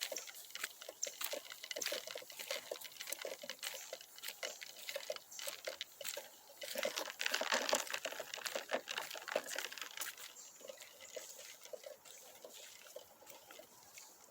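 Footsteps crunching and rustling through dry leaves, twigs and brush on a woodland path, a dense run of small irregular crackles that grows busier about seven seconds in and thins out toward the end.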